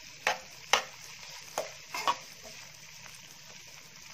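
Shrimp, garlic and chili sizzling in hot oil in a stone-coated non-stick wok, the raw shrimp just starting to cook. A spatula scrapes and knocks against the pan about five times in the first two seconds as the food is stirred, then there is steady sizzling.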